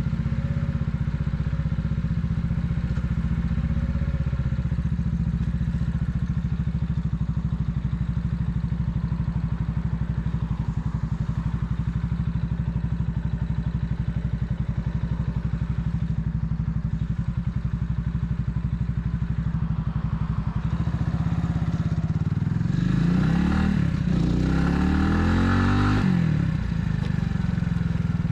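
Italika 250Z motorcycle engine running steadily while riding. Near the end the engine revs rise and fall a few times and get louder.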